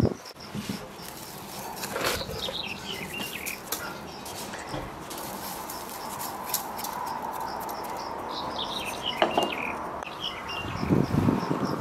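A songbird sings two cascading runs of falling notes, over steady insect chirping of about four short pulses a second. A few soft knocks of hands handling dough and a pot come near the end.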